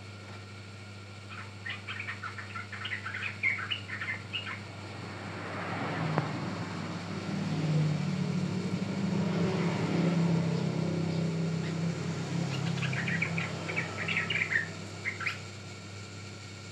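Yellow-vented bulbul (trucukan) giving quick chattering chirp phrases, once near the start and again near the end. In between, a vehicle engine swells and fades as it passes.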